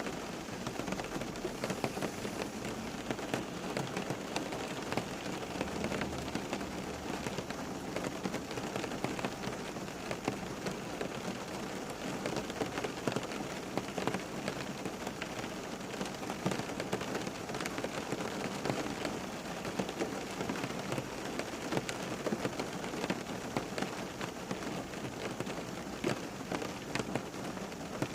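Steady rain falling on a surface, a dense patter of many small drops.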